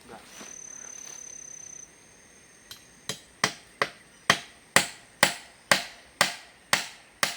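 A hand tool striking repeatedly, about two sharp blows a second, starting about three seconds in. Before the blows, a faint high steady whine lasts a second or two.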